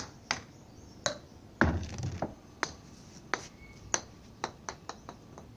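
A series of sharp knocks and taps of hard objects, irregularly spaced, with a louder clatter about two seconds in and quicker, lighter taps near the end.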